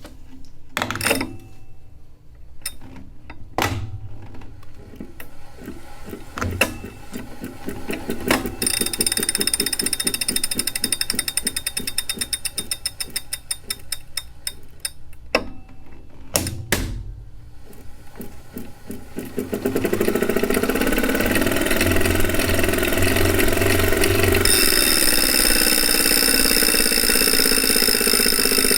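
2018 Wahoo Kickr smart trainer spinning up: a few knocks at first, then the flywheel running with a steady mechanical whir and whine that gets louder about two-thirds of the way in. It is louder than a Kickr is supposed to be, though the bike does not shake, which the owner takes to mean the flywheel is probably not unbalanced.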